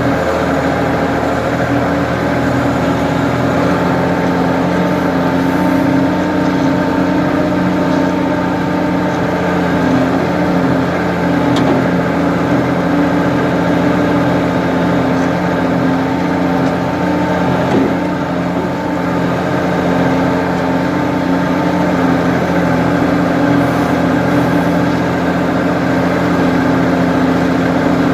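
Ford 550 backhoe's engine running steadily, with no marked revving or change in pitch.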